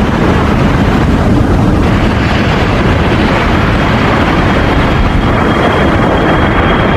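Jet airplane engine sound, most likely an added sound effect: a loud, steady rushing roar, with a thin high whine joining about halfway through.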